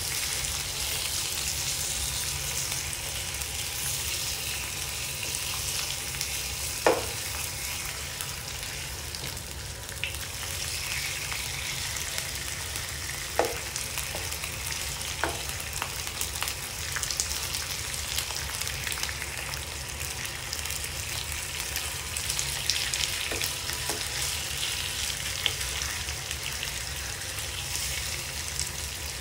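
Pork belly slices and garlic sizzling steadily in hot oil in a nonstick frying pan as a spatula turns them. A few short knocks of the spatula against the pan come through, the loudest about seven seconds in.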